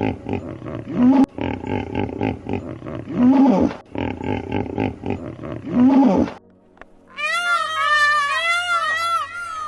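Animal calls: a rough, pulsing call with a short rise and fall at its end, heard three times as identical repeats. After a short pause near the middle it gives way to a quick run of high, arching cries at about four a second.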